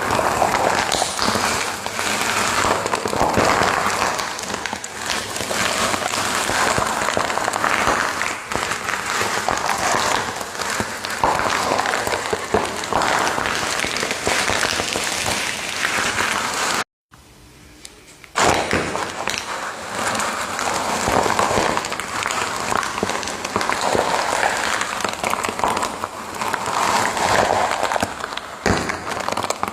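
Fire crackling and popping densely and continuously. The sound cuts out abruptly a little past the middle, comes back faint for about a second, then resumes at full level.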